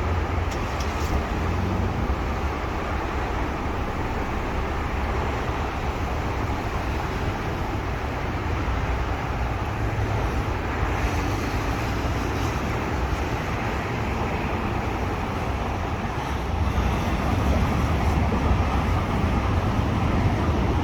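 Steady vehicle and road-traffic noise with a constant low rumble, growing a little louder about sixteen seconds in.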